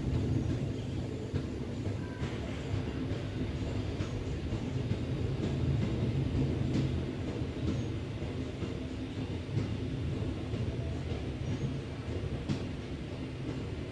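Passenger train running slowly, heard from inside its rear cab: a steady low rumble with a faint hum and a few faint clicks.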